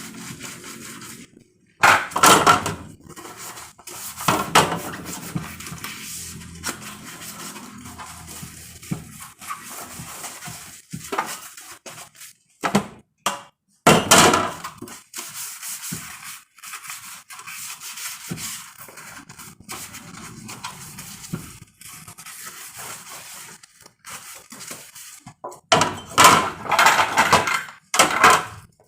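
Dishes and plastic fridge parts clattering as they are handled and washed at a kitchen sink, in irregular loud bursts with quieter handling between.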